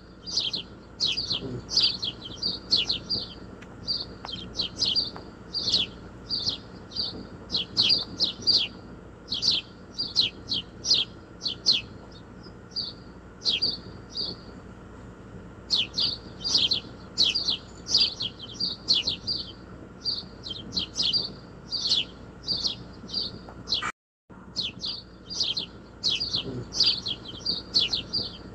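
Small birds chirping in quick runs of short, falling chirps, several a second, with a brief lull about twelve seconds in and a short dropout about twenty-four seconds in.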